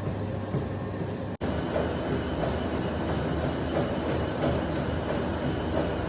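Steady rumble and hum of a moving vehicle heard from inside, cut off for an instant about a second and a half in, then carrying on with a rougher, busier texture.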